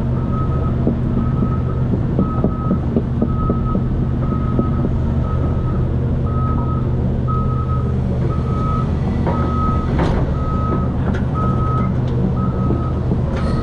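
Heavy equipment's backup (travel) alarm beeping steadily, about one and a half beeps a second, over a diesel engine running. A sharp knock comes about ten seconds in.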